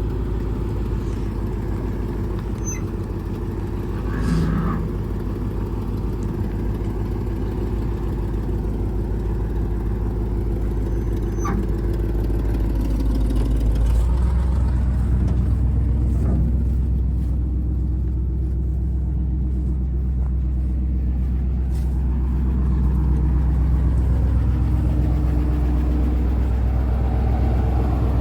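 Ford F250 Super Duty pickup's engine idling steadily, its low hum growing louder about halfway through.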